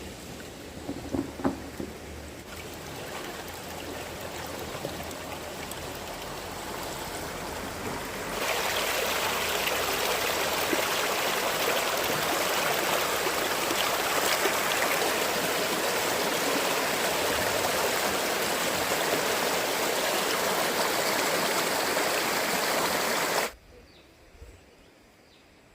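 A fast-flowing stream rushing steadily. It jumps suddenly louder about a third of the way in and cuts off abruptly near the end.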